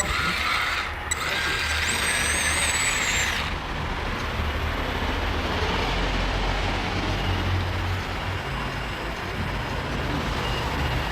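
Radio-controlled construction model working: a loud hiss with a high electric whine for the first few seconds, which stops abruptly, then a steady low mechanical hum.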